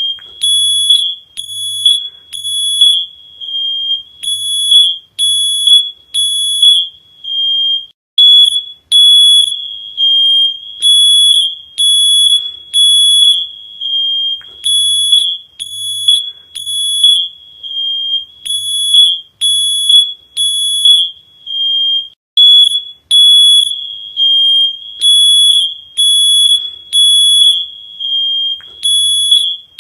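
Electronic alarm sounding a loud, high-pitched beep over and over, about one to two beeps a second in groups broken by short pauses.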